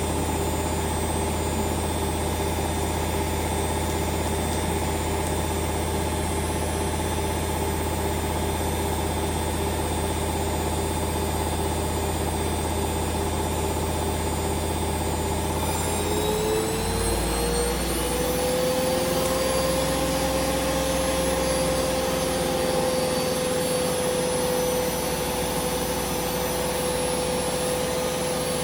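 Hoover Vision Dynamic washing machine on a spin cycle, its motor whining steadily over a deep hum. About halfway through, the whine rises in pitch over a couple of seconds as the drum speeds up, then holds steady at the higher speed.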